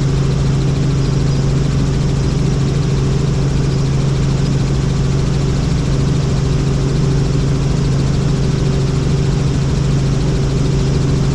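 Helicopter in flight, a loud, steady drone with a strong low hum and a few steady higher tones above it.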